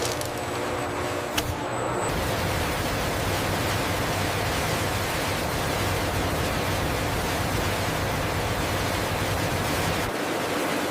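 Steady rushing noise of factory processing machinery with a low hum underneath, and a single sharp click about a second and a half in.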